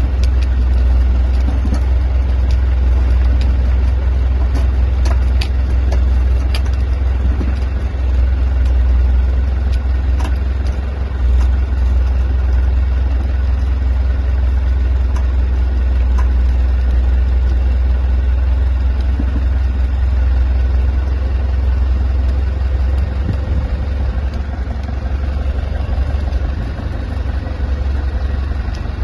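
An engine running steadily with a deep rumble, with scattered clicks and knocks over it.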